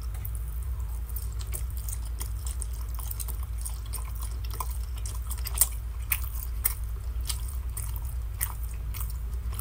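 A person chewing a mouthful of roast beef: irregular wet mouth clicks and smacks over a steady low hum.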